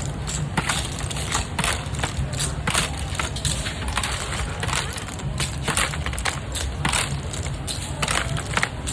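Busy street-food stall: frequent irregular clattering and knocking of utensils and containers over a steady crowd hubbub.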